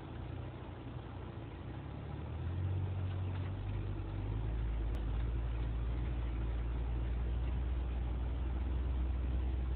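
Jeep JK Wrangler's engine running at low speed as it crawls a rocky off-road trail, heard from inside the cab. The engine note grows louder and drops deeper about three seconds in.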